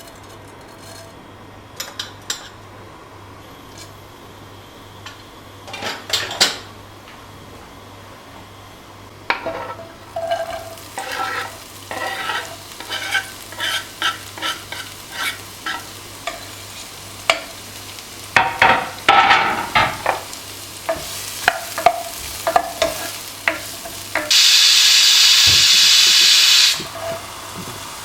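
A metal spoon stirring and scraping food in a cooking pan, in a long run of quick strokes with clinks against the pan, over frying. Near the end a loud, steady hiss lasts about two seconds and cuts off sharply.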